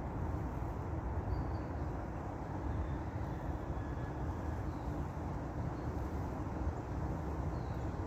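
Wind buffeting the microphone: a steady low rumble with no clear tone.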